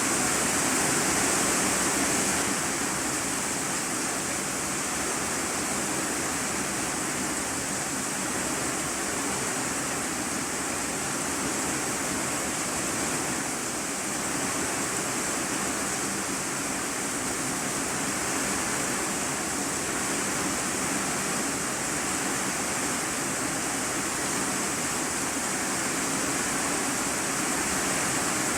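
Heavy rain falling on an iron-sheet roof, heard from the room beneath: a steady, dense hiss.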